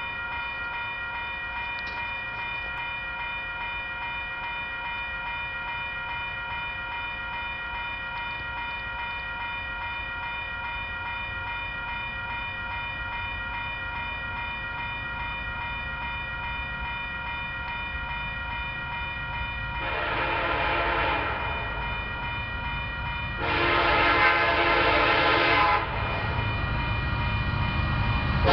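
Union Pacific freight train's diesel locomotives approaching: a low rumble slowly grows louder, with a steady high ringing tone over it. The locomotive's air horn sounds twice, a short blast about twenty seconds in and a longer one a few seconds later.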